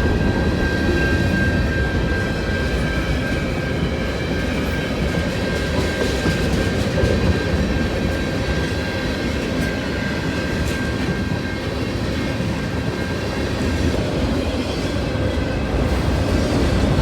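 Canadian National freight train's cars rolling past, a steady rumble with some clickety-clack. A thin, high steady tone runs along with it and fades out about twelve seconds in.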